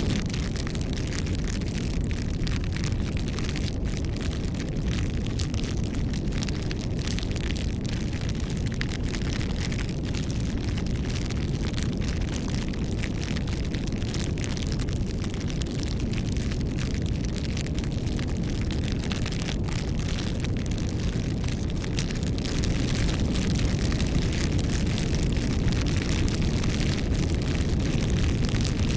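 Bonfire burning: a steady low rumble of the flames with scattered small crackles from the burning wood, a little louder near the end.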